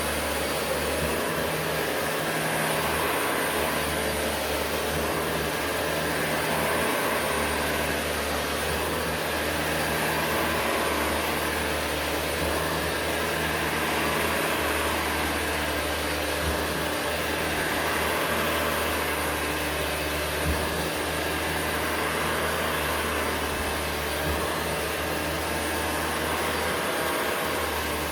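Vacuum cleaner running steadily with a constant low hum and gentle swells in its sound, with a couple of faint knocks.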